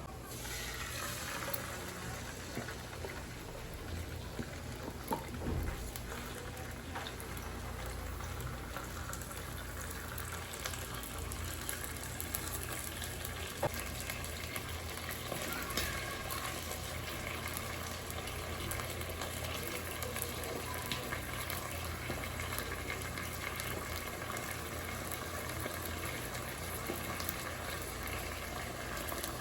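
Water boiling in a pot, a steady bubbling hiss, with a few light knocks.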